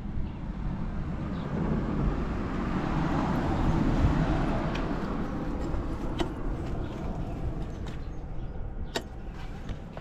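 Motor vehicle noise: a low rumble that swells to a peak about four seconds in, then fades, with a few light clicks near the end.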